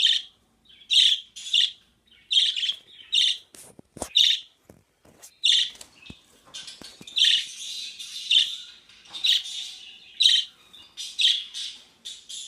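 Small pet birds chirping in short, repeated calls, about one or two a second, with a denser run of chattering in the middle. A few light knocks sound about four seconds in.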